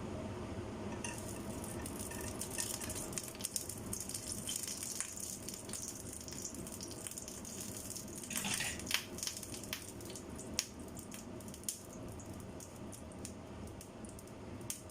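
Rice noodles frying in a pan: a crackling sizzle with scattered sharp ticks and knocks, over a steady low hum. A louder hiss rises briefly just past the middle.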